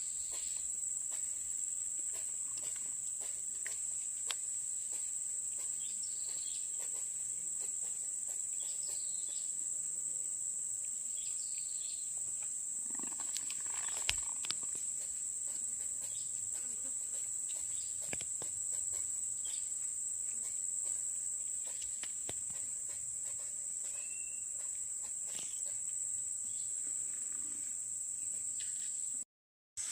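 Insects, crickets or similar, keeping up a steady high-pitched trill. Faint short chirps and a few soft clicks sound over it, with one louder brief sound about halfway.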